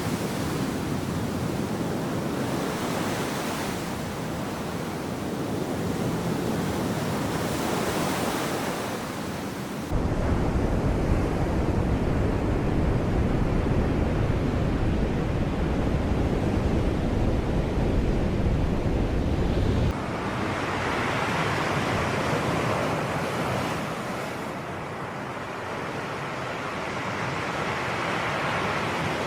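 Sea waves washing in a steady rush with wind on the microphone; a heavier, deeper rumble cuts in abruptly about ten seconds in and cuts out just as abruptly ten seconds later.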